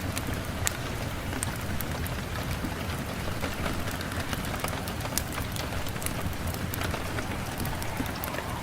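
Steady rain falling, with many scattered sharp ticks of individual drops striking a surface.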